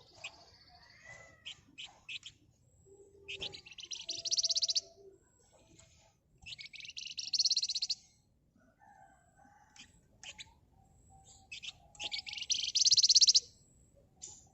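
Javan fulvetta (flamboyan) singing: three loud bursts of very rapid, dense high trilling, each lasting about a second and a half, with scattered short chips and calls between them.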